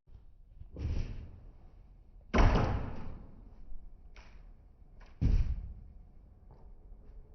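A handful of irregular thuds and knocks, the loudest about two and a half seconds in and another strong one just past five seconds.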